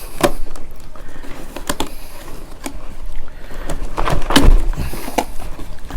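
Cardboard box and packaging being handled and opened by hand: scattered scrapes, rustles and small knocks, with a louder bump about four seconds in.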